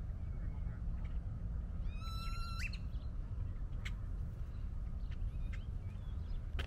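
A single bird call about two seconds in, lasting about half a second: a short rise, then a held pitch. It sounds over a steady low rumble, with a few faint clicks afterwards.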